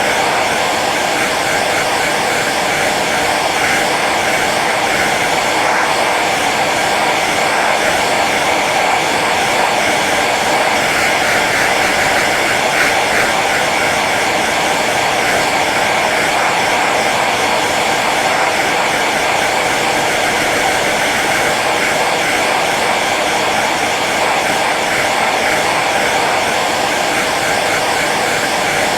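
Hair dryer running steadily on its low setting: a continuous fan whir and rush of air with a faint motor hum, unchanging throughout.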